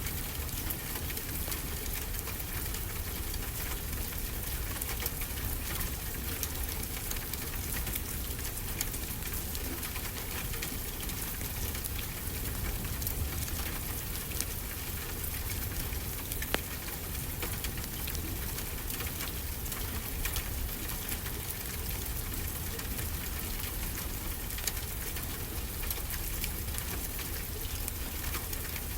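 Steady rain with a low rumble underneath, and sharp crackles and ticks scattered throughout from a fireplace fire and falling drops.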